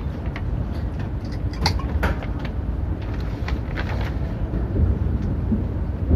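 Hokuriku Shinkansen train running, heard from inside the passenger cabin: a steady low rumble with a few short clicks and knocks.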